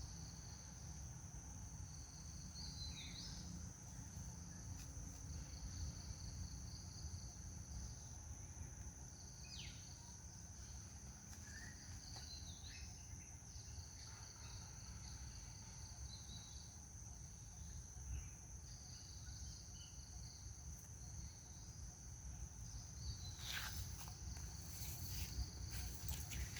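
Steady high-pitched insect chorus over a low background rumble, with a few short falling chirps scattered through. A cluster of sharp clicks and rustles comes near the end.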